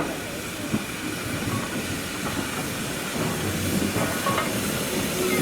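A train running along the line: a steady rumble of wheels on rail with a few clicks and some hiss, slowly growing louder.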